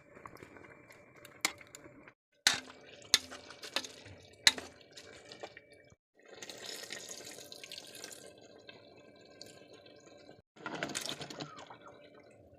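Liquid pouring and dripping, broken up by several sharp knocks in the first half and a louder splash near the end.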